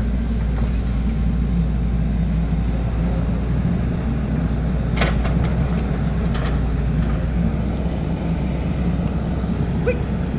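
Excavator's diesel engine running steadily under load, with one sharp knock about halfway through.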